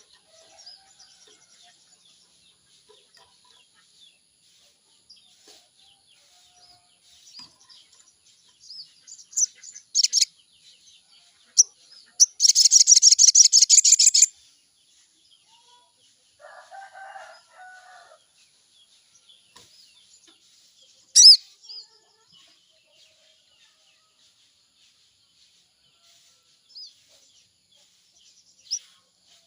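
Sogon (sogok ontong) bird calling: scattered high, sharp chirps, loud single calls about ten and twenty-one seconds in, and a loud fast trill lasting about two seconds a little before the middle, the kind of song used as a lure to stimulate a caged sogon into singing. A chicken clucks briefly a little past the middle.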